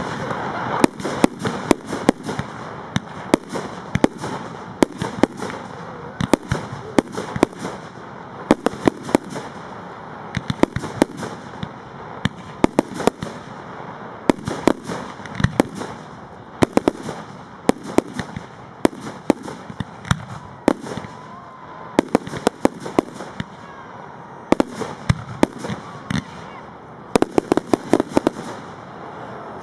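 A fireworks display: aerial shells and rockets going off in a rapid, irregular series of sharp bangs, with a dense volley near the end.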